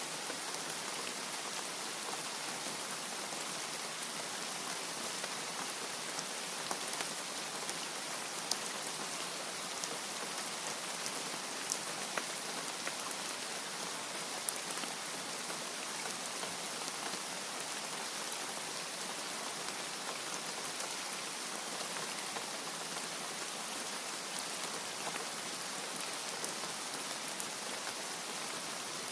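Steady rain falling: an even hiss with scattered sharp ticks of single drops hitting a surface.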